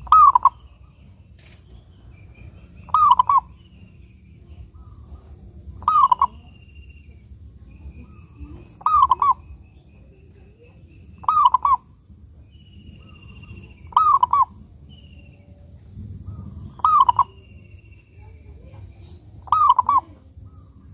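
Zebra dove (perkutut) cooing: a short clipped call repeated about every three seconds, eight times, over a faint low hum, with faint high chirps from other small birds between the calls.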